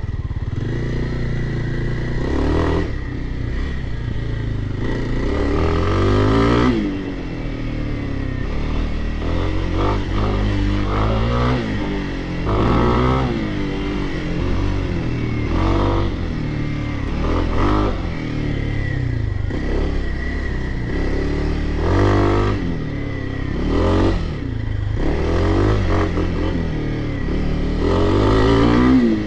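Dirt bike engine revving up and dropping back again and again, its pitch climbing and falling every few seconds as the throttle is opened and shut while riding.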